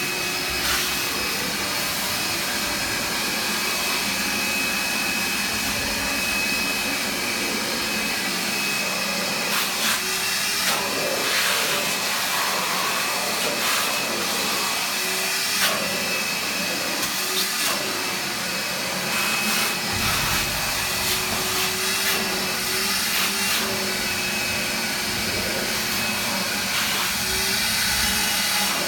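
Shop vacuum running steadily; its motor whine wavers slightly in pitch now and then. A few brief knocks can be heard over it.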